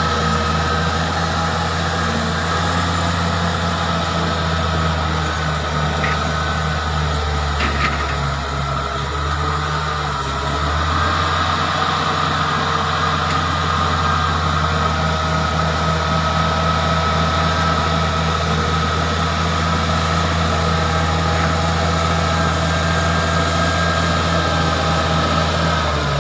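Caterpillar bulldozer's diesel engine running steadily, with a steady whine above the low drone; the engine sags briefly about a third of the way in, then settles again.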